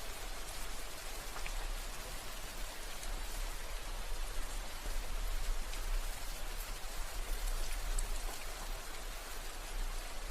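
Steady rain falling as an even hiss, with scattered sharper ticks of individual drops and a low steady rumble underneath.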